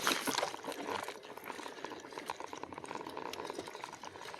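Heavy e-bike rolling along a dirt trail: the tyres crackle over the ground, with a faint rapid ticking throughout.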